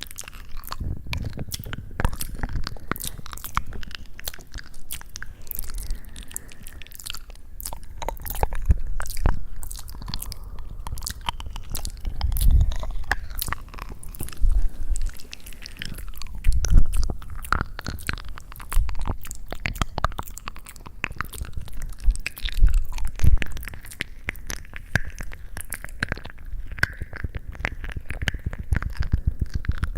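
Close-miked ASMR crunching and crackling: a dense run of small crisp clicks over soft low thumps, swelling louder every few seconds.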